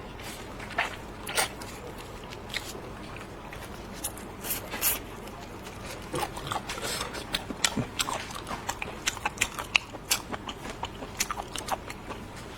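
A person biting and chewing food close to the microphone: sharp crunches and wet mouth clicks, few at first and coming faster and denser from about halfway through.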